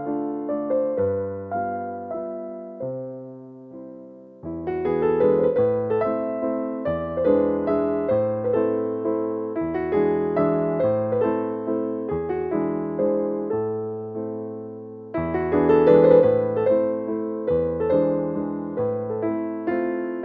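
Background piano music, a gentle waltz in A minor, its notes struck and left to fade. The phrase thins out and grows quiet around three to four seconds in, then the playing picks up again.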